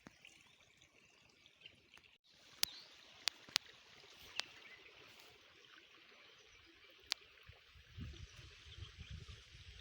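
Faint steady rush of a small stream, with a few sharp clicks in the middle and a low rumbling near the end.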